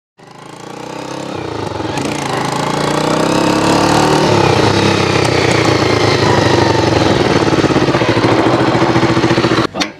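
Small engine running steadily with a fast, even pulse, fading in at the start and cutting off abruptly near the end.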